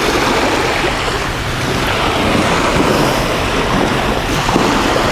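Sea surf washing on a beach with wind on the microphone: a steady, unbroken noise.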